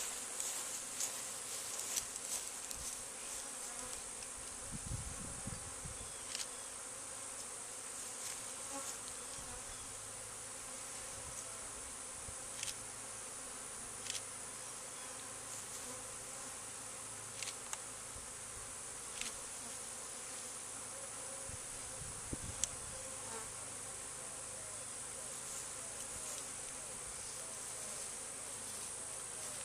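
Honeybee swarm buzzing steadily at close range as the bees move into a swarm trap, with a few faint clicks scattered through.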